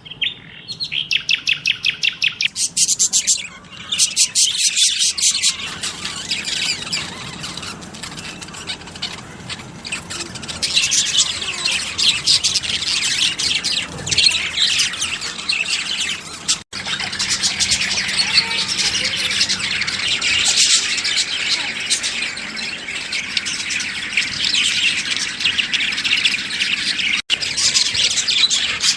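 Many small birds chirping and calling over one another in a dense chorus. In the first few seconds one bird repeats a single note in a rapid run. The sound cuts out abruptly and briefly twice, about two-thirds of the way in and near the end.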